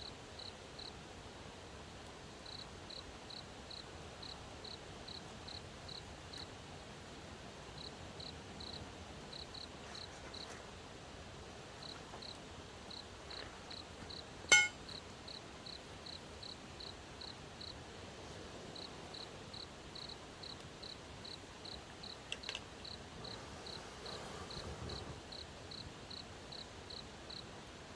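Crickets chirping at one high, steady pitch, about four chirps a second in runs with short pauses, with a single sharp crack about halfway through.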